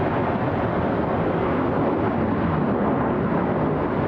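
Steady roar of jet aircraft noise across the airfield.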